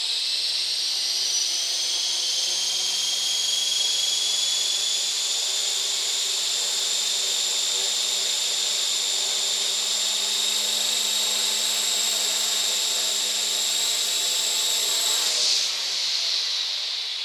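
RC model's motor driving a four-blade rotor at a run-up, giving a steady high-pitched whine. The whine climbs slightly over the first few seconds, holds, then winds down near the end as the throttle is cut.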